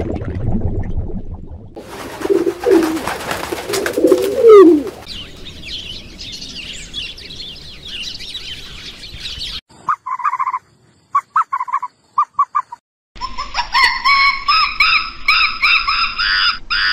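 Birds calling and chirping in several short passages that start and stop abruptly. A few lower gliding calls come first, the loudest about four and a half seconds in, then high chirps, a handful of short separate chirps, and a dense run of high calls near the end.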